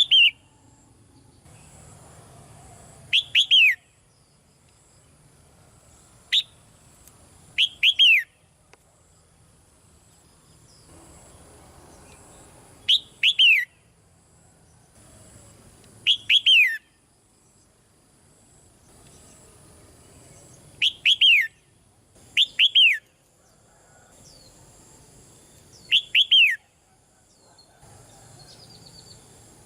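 Red-whiskered bulbul calling in a cage. It gives about nine short, loud calls, each a quick cluster of notes sweeping downward, spaced a few seconds apart.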